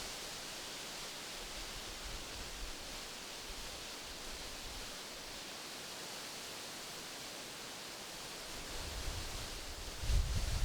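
Wind rustling through tree leaves as a steady hiss. Near the end, low rumbling gusts of wind buffet the microphone.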